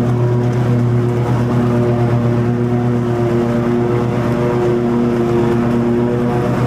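Toro TimeCutter 50" zero-turn riding mower running steadily with its mower deck engaged, cutting long grass; a constant low engine hum with a steady pitch.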